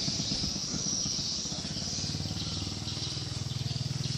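An engine idling with a steady, even putter, over a steady high chirring in the background.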